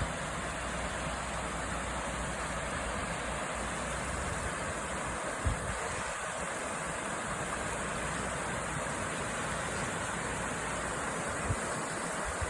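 River water flowing in a steady rush, with brief low bumps of wind on the microphone about five and a half seconds in and near the end.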